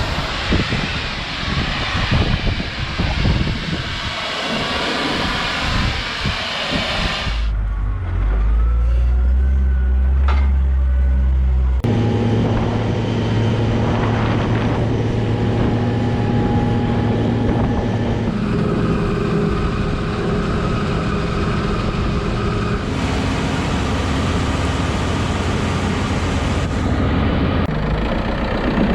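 John Deere harvest machinery's engine running steadily across several shots that cut abruptly, its hum changing pitch at each cut. A rushing, wind-like noise covers the first seven seconds.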